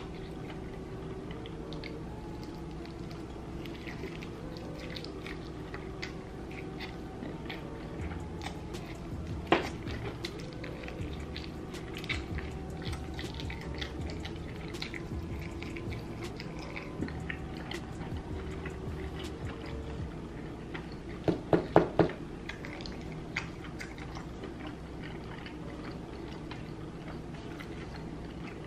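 Close-up eating sounds of crunchy fried chicken coated in sauce: crisp crunching and wet, sticky chewing. Faint steady music runs underneath. One sharp knock comes about a third of the way in, and four quick loud knocks about three quarters of the way through.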